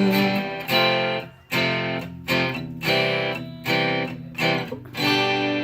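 Guitar playing the song's closing chords as separate strums, about six of them, each left to ring and die away before the next.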